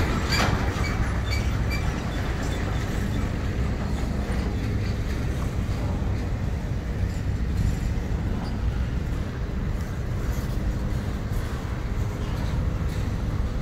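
Freight train rumbling past, with a steady low diesel locomotive drone.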